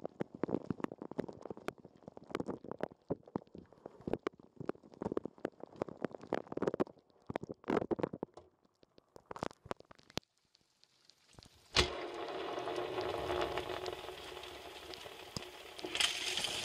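Water spraying and splashing inside a running dishwasher, heard from inside the wash chamber as an irregular patter. About twelve seconds in a sudden knock, then a steady whir with rushing water that stops near the end.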